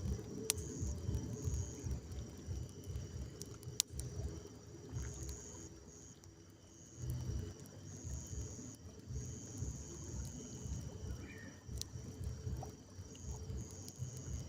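Night insects trilling in high-pitched stretches that start and stop every second or two, over a low rumbling noise, with a few sharp pops from a burning wood campfire.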